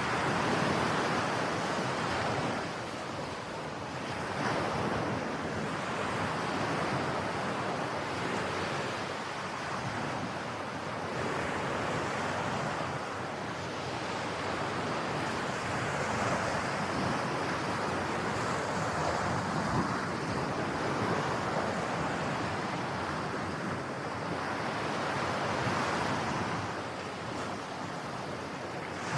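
Ocean waves breaking and washing ashore in a continuous surf that swells and eases every few seconds, with some wind on the microphone.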